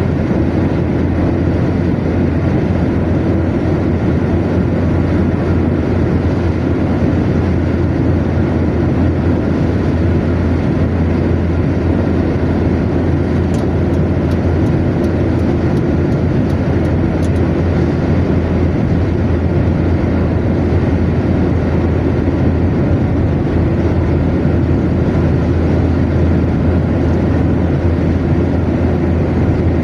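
Car cruising at motorway speed: a steady, low rumble of tyre, road and engine noise. A short run of faint high ticks comes about halfway through.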